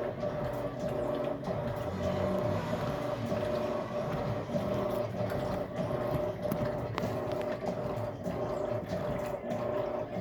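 Electrolux LAC13 13 kg top-loading washing machine running its wash after filling, with a steady motor hum and the uneven churn of the wet load.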